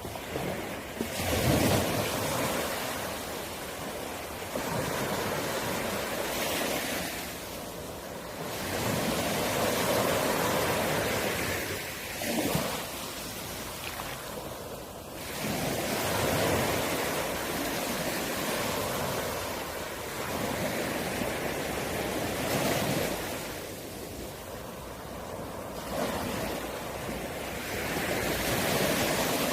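Sea waves breaking on the shore and washing back, a swelling and fading surge of surf every five or six seconds.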